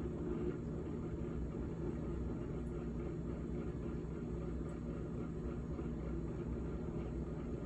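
GE GTH18XCTZRBB refrigerator running with a steady low hum.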